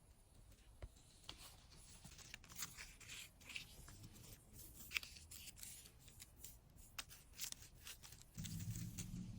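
A run of faint, short scratching and crackling sounds, then a louder low steady hum that starts near the end.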